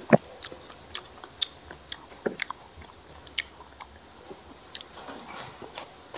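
Close-up chewing and biting of crispy fried pork, with many small scattered clicks. A louder knock comes just at the start, and another a little past two seconds in.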